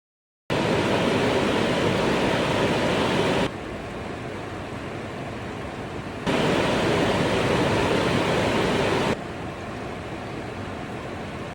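Heavy rain on a metal folded-plate roof, heard from inside a warehouse, as an even noise with no separate drops, in two alternating recordings. It starts about half a second in at full level on the bare roof, drops sharply after about three seconds where a Hie-roof heat-shield sheet keeps the rain off the metal, then comes back loud and drops again.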